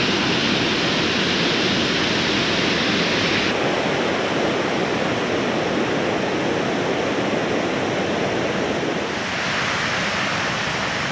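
The River Braan rushing in spate, swollen by days of rain, a raging river. Its tone shifts about three seconds in and again near the end.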